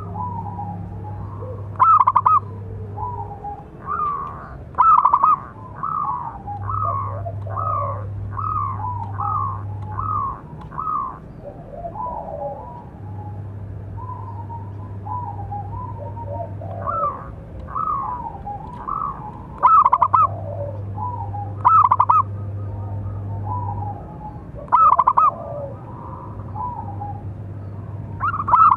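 Zebra dove (perkutut) cooing: phrases of short, quick notes repeated over and over, with a few louder notes standing out.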